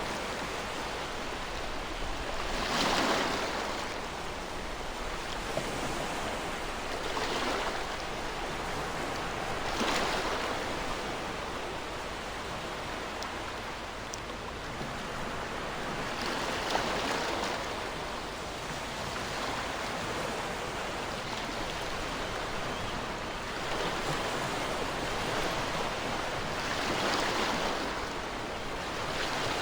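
Ocean waves breaking on a shore, a steady wash of surf that swells with each wave every few seconds.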